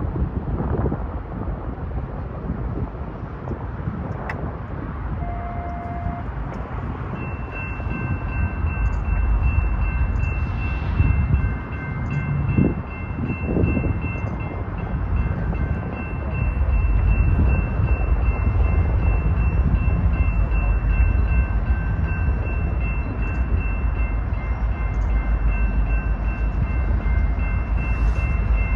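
BNSF coal train with EMD SD70ACe diesel locomotives in the lead, rumbling through a grade crossing and getting louder about halfway through. Steady high-pitched tones start about a quarter of the way in and carry on to the end.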